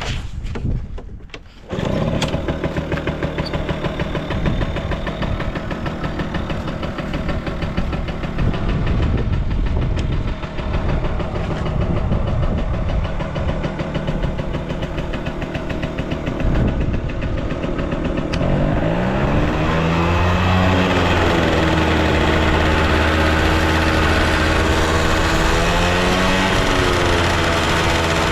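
Yamaha Passol scooter's small two-stroke engine starting about two seconds in, idling steadily, then revved up and down several times over the last ten seconds. It runs with no abnormal noise.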